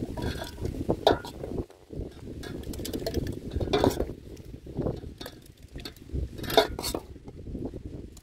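Kitchen clatter: dishes and metal utensils clinking and knocking against each other in irregular sharp strokes, over a low steady rumble.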